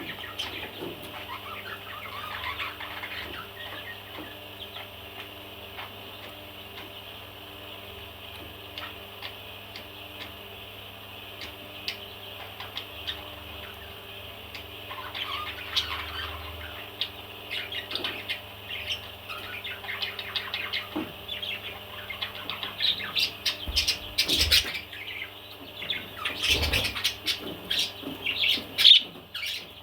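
Parrots chirping and squawking, a steady high chatter with sharper, louder calls that grow busier in the second half.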